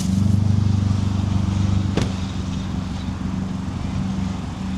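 Car engine idling steadily with a fast, even low pulse, and one sharp click about two seconds in.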